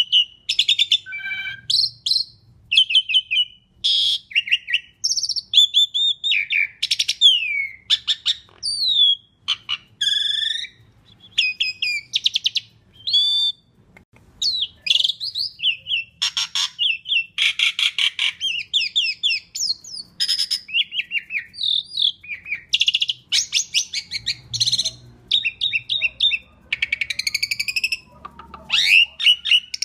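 Asian pied starling (jalak suren) singing a continuous, varied song of whistles, sweeping glides and harsh, rattling chatters, one phrase quickly following another.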